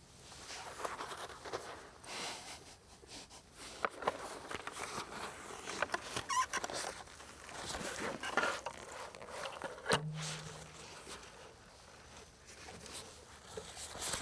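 Irregular rustling with scattered light knocks and clicks, as of things being handled and moved about, and a brief low hum about ten seconds in.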